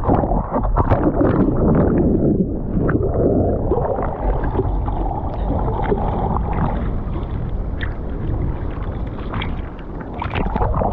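Sea water splashing and churning close to the microphone in the surf, with wind buffeting the microphone.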